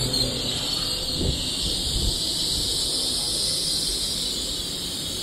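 LNER Class 800 Azuma train standing at a platform, giving off a steady high-pitched hiss over a low rumble. Two dull thumps come about a second and two seconds in.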